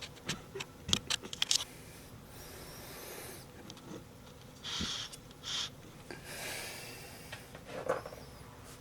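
A quick run of sharp clicks and knocks from handling and adjusting a cheap camera tripod, followed by soft rubbing and rustling noises and a single knock near the end.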